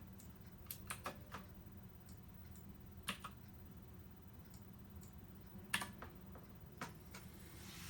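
Scattered single clicks from computer input, about seven spread across a few seconds, over a faint steady low hum.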